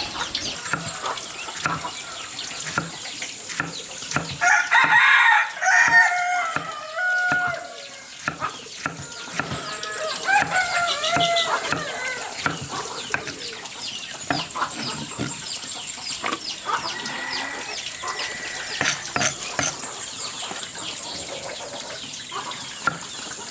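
Chickens clucking and a rooster crowing, the loudest calls coming about five seconds in and again around ten seconds. Many short, sharp knocks run throughout, over a steady high-pitched hiss.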